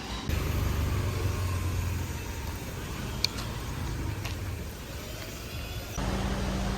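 Low, steady rumble of a moving road vehicle, with one sharp click about three seconds in. The sound changes abruptly near the end, when a steady low hum joins in.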